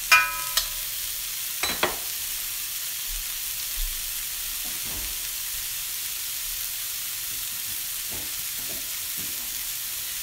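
Broccoli stir-frying in a hot wok: a steady hissing sizzle. A metal spoon clinks against the wok twice at the start, ringing briefly, and there is a knock just under two seconds in.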